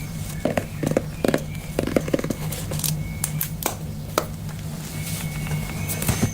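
Scattered light taps and clicks from hands handling a pen and journal, over a steady low hum.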